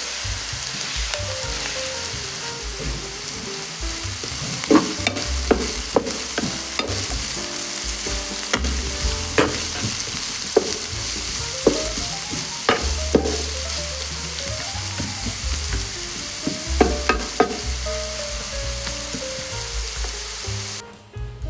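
Food sizzling steadily in hot oil in a frying pan while being stirred, with a utensil knocking sharply against the pan a dozen or so times. The sizzle cuts off suddenly near the end.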